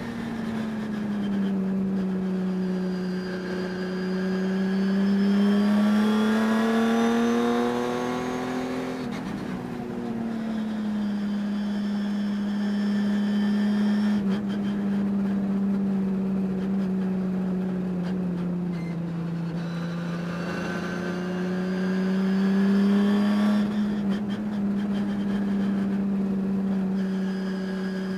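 Race car engine running under load at racing speed. Its note climbs slowly and falls off sharply twice, about nine seconds in and again near the end, as the throttle lifts and opens. The driver says a high-RPM misfire that new parts did not cure can be heard through the race.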